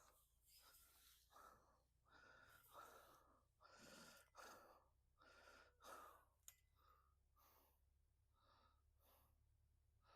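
Faint, quick breathing of a person at physical work, a short puff of breath about every half second to second, with one sharp click about six and a half seconds in.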